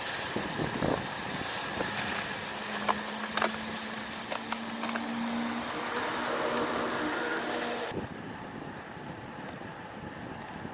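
Wind rushing over an action camera's microphone with road noise from a moving road bike, a few sharp clicks early on, and a steady low hum through the middle. The hiss drops off suddenly near the end.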